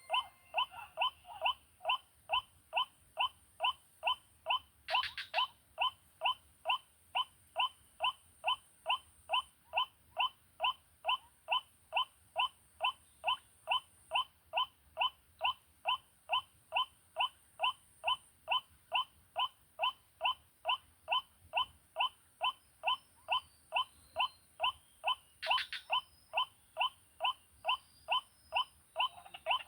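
White-breasted waterhen (ruak-ruak) call repeated monotonously, about two short even notes a second, played from an MP3 player as a lure for snaring the birds.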